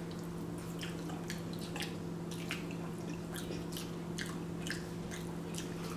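Two people chewing mouthfuls of chicken and spinach, with wet smacking and squishing clicks of the mouth at an irregular pace. A steady low hum runs underneath.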